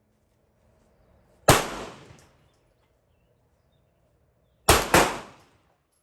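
Pistol shots: one sharp report about a second and a half in, then a quick pair about three seconds later, each with a short ringing tail.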